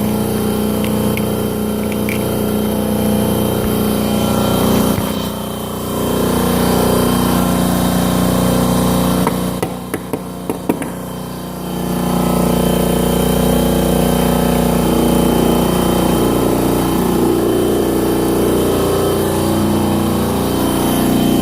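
A motor-driven machine running steadily. It dips in level for a moment about five seconds in, and again for a couple of seconds near the middle, where a few sharp clicks come through.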